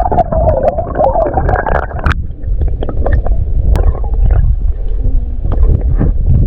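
Heavy, low rumbling and sloshing of water as someone wades into deeper river water, with knocks and bumps on the microphone. A muffled band of sound cuts off abruptly about two seconds in.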